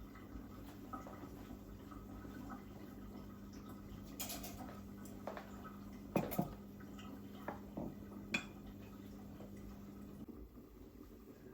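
Kitchen handling sounds: a few sharp clinks and knocks of dishes and utensils, the loudest about six seconds in, over a steady low hum that stops near the end.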